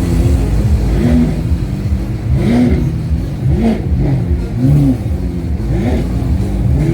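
Sports car engine revved repeatedly in short blips, its pitch rising and falling about once a second, five or six times, over a steady low exhaust rumble.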